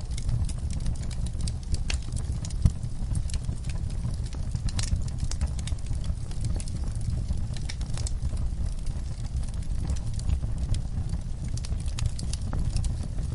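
Wood fire crackling in a fireplace: irregular sharp pops and snaps over a steady low rumble of burning, with one louder pop between two and three seconds in.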